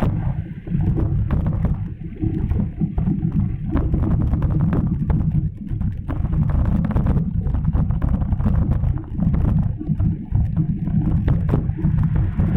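Wind buffeting the microphone as a loud, uneven low rumble, with scattered small clicks and rattles.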